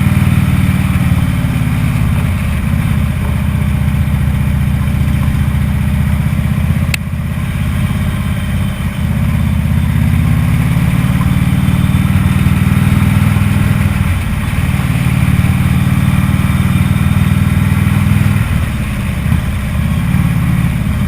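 Motorcycle engine running under way, its low note dropping and picking up again several times as the throttle changes. A single sharp click about seven seconds in.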